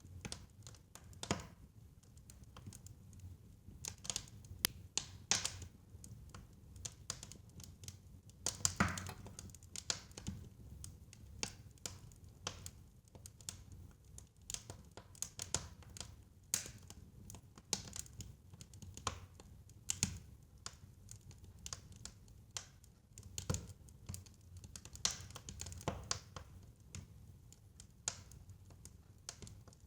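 Fire crackling in a fireplace: irregular sharp pops and snaps over a low, steady rumble, with a couple of louder pops about nine seconds in and again near three-quarters of the way through.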